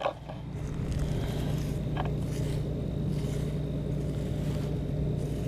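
Combine harvester engine running steadily at a constant speed, a low, even drone.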